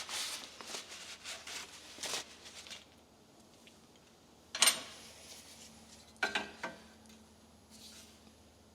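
Hand tools and metal fittings clinking and scraping, a quick run of small clicks and rattles, then a sharp metallic clink and, a little later, two more with a brief ring.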